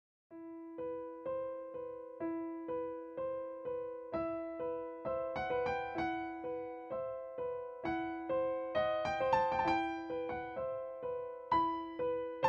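Intro music: an electric piano or keyboard playing a steady pattern of repeated notes, about two a second. It starts about a third of a second in and grows a little busier and louder toward the end.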